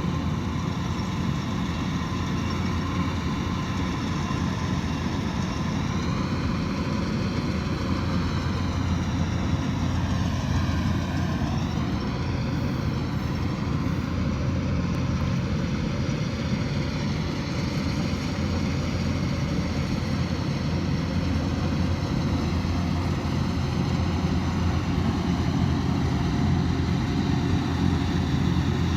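Kubota DC108X combine harvester running steadily, its diesel engine and machinery giving a continuous deep drone.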